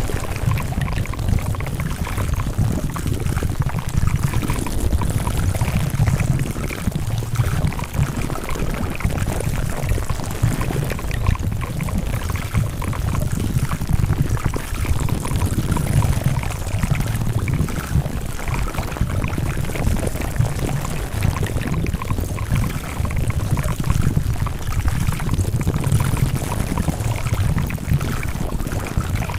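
Layered mix of ASMR trigger sounds: a dense, continuous crackling with many small clicks over a low rumble.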